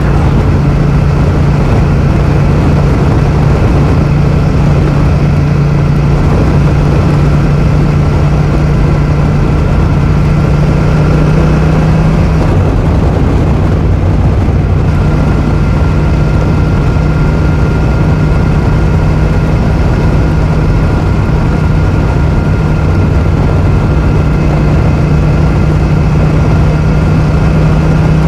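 Yamaha MT-07's parallel-twin engine running at a steady, unchanging note through an Akrapovic full titanium exhaust with the dB killer removed.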